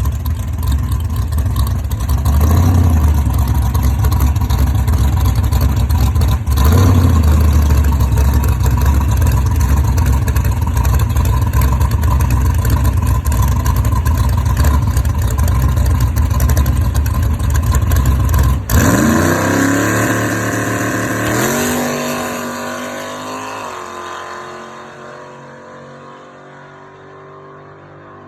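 A vehicle engine running loud, swelling briefly about two and six seconds in. About nineteen seconds in, the heavy rumble cuts off abruptly and the remaining pitch winds down and fades away.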